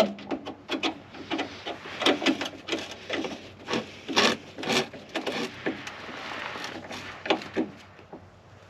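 Hand tools working on metal parts: irregular clicks, knocks and scrapes, with a longer scraping rush a little past halfway.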